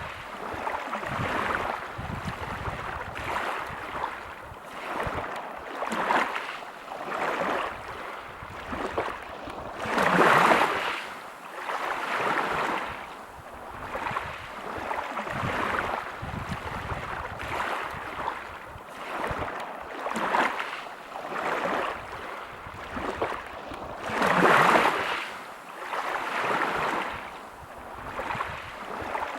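Waves breaking on a pebble beach: a wash of surf swelling and ebbing every couple of seconds, with two larger waves breaking, about a third of the way in and again late on.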